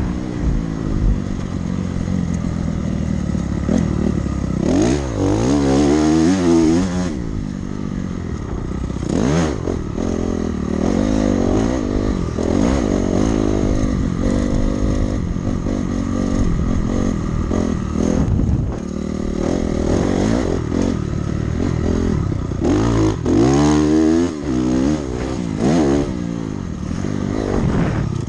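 Dirt bike engine being ridden hard around a motocross track, revving up and dropping back over and over as the rider accelerates, shifts and backs off.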